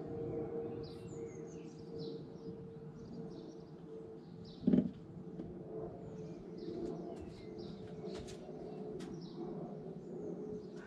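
Small birds chirping and singing over a steady hum, with one short, loud thud about halfway through.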